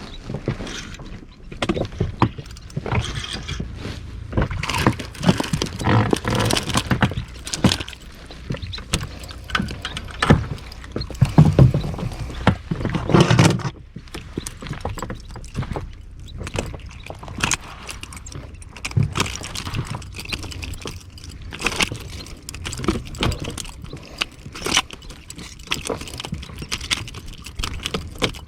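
Irregular knocking, rattling and clattering in a small inflatable boat as fishing gear is handled, with a few heavier thumps partway through.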